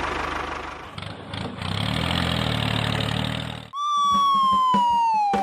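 A steady low motor hum that cuts off suddenly, followed by a loud whistle-like tone that slides steadily downward in pitch for about two seconds.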